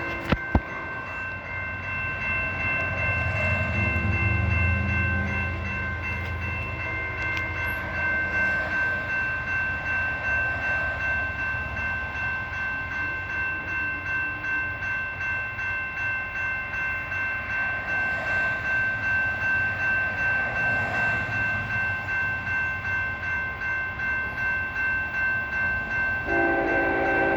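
Canadian Pacific freight train led by a GE ES44AC diesel locomotive passing, its multi-note horn sounding briefly at the start and again about a second before the end. A bell rings steadily, and the locomotive diesels rumble past a few seconds in.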